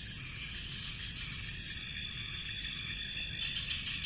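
Tropical night insects, crickets among them, calling in a steady high-pitched chorus, over a low, even background rumble.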